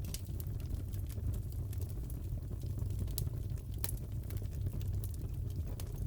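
Crackling fireplace: a steady low rumble of burning logs with irregular sharp pops and crackles scattered throughout.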